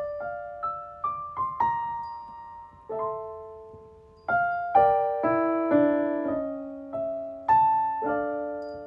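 Piano played slowly: single melody notes and chords struck one after another, each left to ring and fade, with fuller chords about halfway through.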